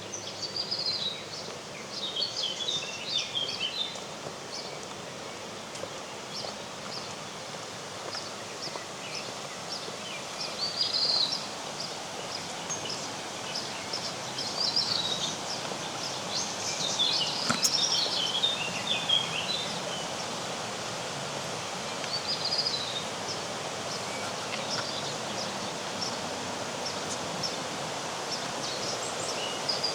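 Songbirds singing in short, twittering phrases that come and go every few seconds, the loudest about a third of the way in and again just past halfway, over a steady hiss of outdoor background noise.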